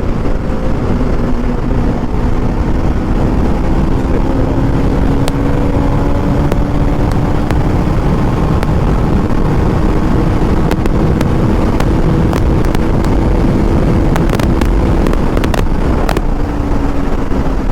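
KTM RC 200's 199.5 cc single-cylinder engine pulling hard under the rider, its note rising slowly as the bike gains speed, then falling back near the end, with heavy wind rush. A few sharp clicks come in the last few seconds.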